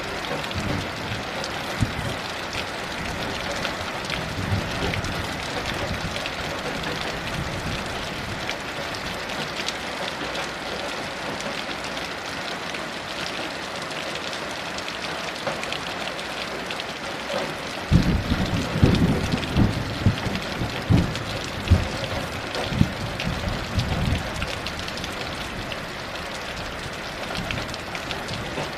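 Heavy steady rain falling, a constant hiss of drops. About two-thirds of the way in, thunder rumbles in a series of deep surges for several seconds before the rain carries on alone.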